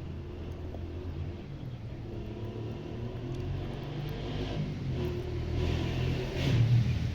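A low engine rumble that grows steadily louder.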